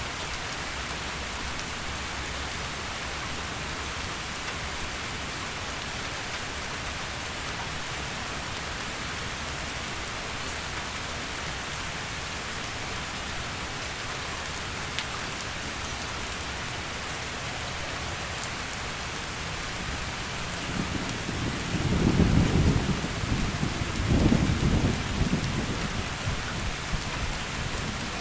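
Heavy rain falling steadily, then a roll of thunder rumbles in about three-quarters of the way through, swelling twice before easing off.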